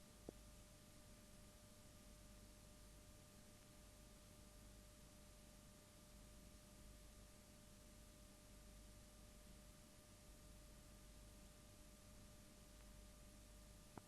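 Near silence: a faint steady hum and hiss, with a single click just after the start.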